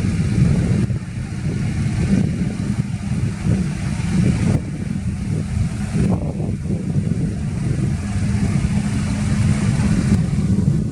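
Diesel engine of heavy earthmoving equipment running, a steady low rumble.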